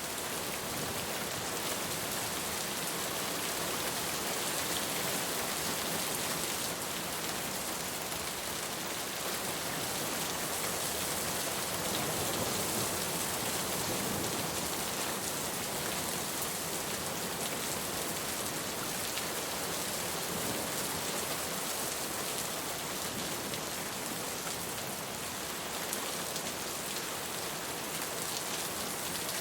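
Steady rain falling and pattering on a surface, an even hiss with fine drop ticks and no letup.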